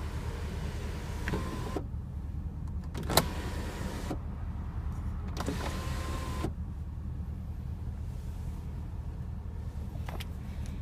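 Porsche Panamera's electric sunroof motor whirring as the roof opens, closes and tilts, running in three stretches with pauses between and a sharp click about three seconds in, over a low steady rumble.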